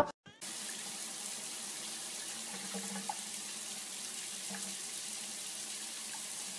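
Steady hiss of running water, starting about half a second in, with a faint low hum under it.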